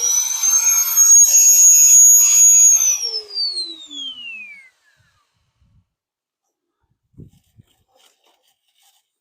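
Electric drill motor drilling steel plate: a high whine that rises in pitch right at the start, holds steady, then about three seconds in falls away as the motor spins down and stops. A couple of faint knocks follow.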